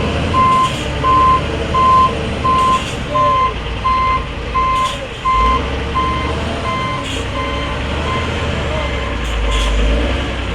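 Truck reversing alarm beeping steadily, about three beeps every two seconds, growing fainter and stopping near the end, over the low rumble of a heavy truck engine running.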